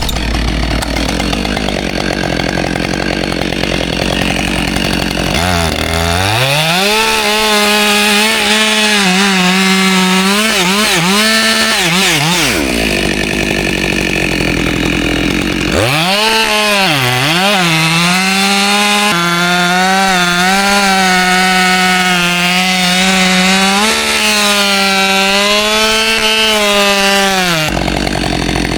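Two-stroke chainsaw at high revs cutting into pine, its engine note dipping and wavering under load. It runs in two long stretches, separated by a few seconds of rougher noise, and picks up again near the end.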